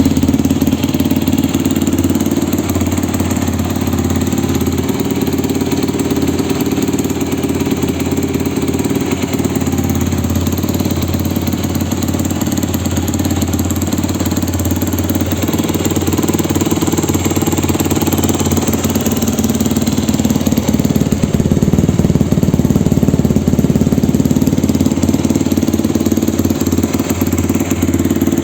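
2008 Yamaha WR250's single-cylinder four-stroke engine idling steadily through a full Akrapovic exhaust, a little louder in the last several seconds.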